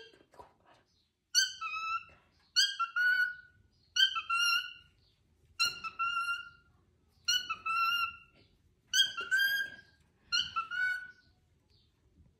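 Cockatiel repeatedly calling 'kiekeboe' in a whistly, mimicking voice, seven short two-part calls about one and a half seconds apart, each dropping in pitch at the end.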